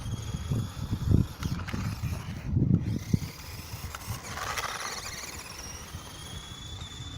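Toy-grade NQD RC monster truck's electric motor and gears whining, the pitch gliding up and down as the throttle is worked and swelling about four seconds in. Low rumbling thumps sit under it in the first three seconds.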